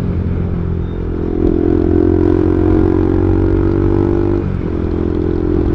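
Bajaj Pulsar NS200's single-cylinder engine through an aftermarket Akrapovic exhaust, heard while riding. The note holds steady at a constant engine speed, then changes briefly about four and a half seconds in as the throttle or gear changes.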